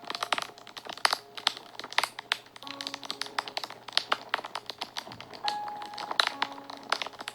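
Fire crackling and popping, with frequent sharp snaps, over soft background music with a few long held notes.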